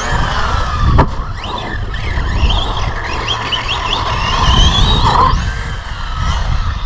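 Brushless electric motor of a 3S RC monster truck whining, its pitch rising and falling repeatedly with the throttle, over a rough low rumble. A sharp knock about a second in.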